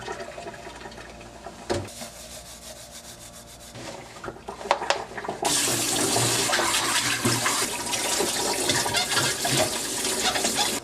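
Kitchen tap running into a sink during dishwashing, with a few clinks of dishes in the first half. About halfway through, the water comes on much harder and runs in a strong, steady stream until it cuts off suddenly at the end.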